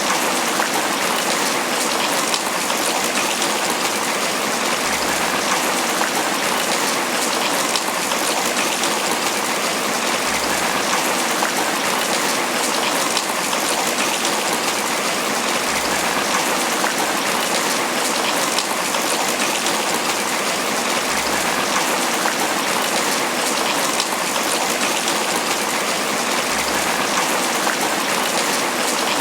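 Steady tropical rain falling on banana leaves: an even, dense hiss of rainfall flecked with countless small drop hits, with no lulls or surges.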